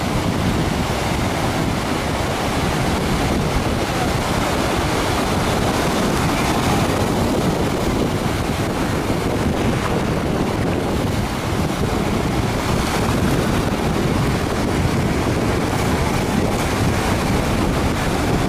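Wind buffeting the microphone, a loud, steady rushing that does not rise and fall.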